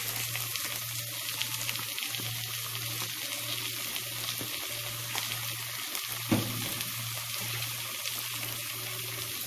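Chopped vegetables frying in a nonstick wok: a steady sizzle with faint crackling, a wooden spatula stirring, and one sharper knock about six seconds in.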